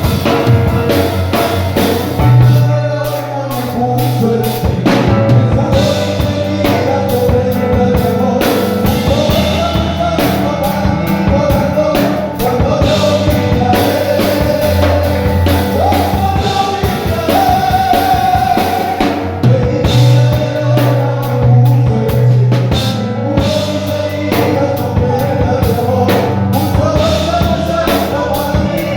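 Live worship music: singers over a band with drum kit and bass guitar playing a steady beat.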